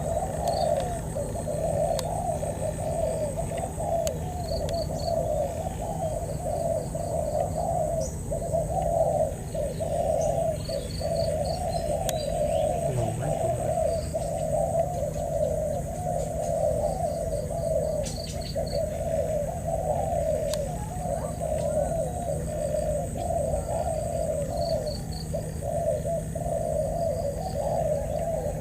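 Spotted doves cooing over and over, their calls overlapping almost without a break. Short series of high chirps from a small bird come in now and then.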